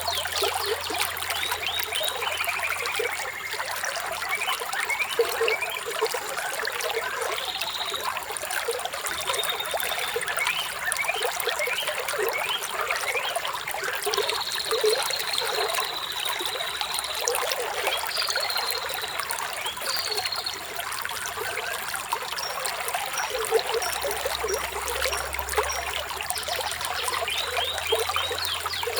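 Water trickling and splashing steadily over stones in a small stream, with small birds chirping now and then over it, one holding a high note for a few seconds about halfway through.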